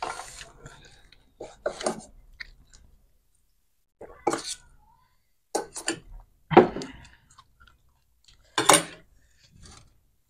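Close-up eating sounds: crisp panipuri being bitten and chewed in about six short crunchy bouts, with pauses between.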